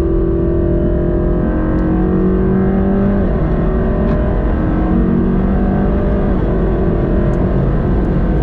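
The AMG GT Black Series' 4.0-litre twin-turbo V8, heard from inside the cabin under acceleration on track. The pitch climbs, drops sharply about three seconds in at an upshift, then climbs again.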